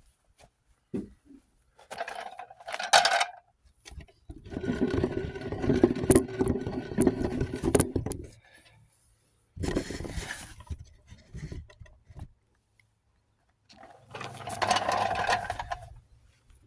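Power burnishing tool stripping paint from steel truck body panels, run in several separate bursts, the longest about four seconds near the middle.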